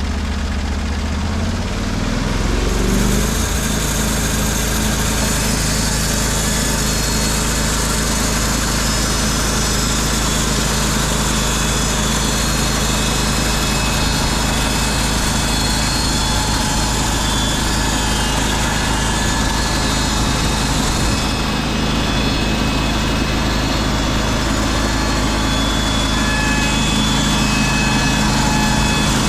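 Portable band sawmill's gas engine, throttling up about two to three seconds in and then running steadily under load. A steady hiss above the engine is the band blade cutting through the log.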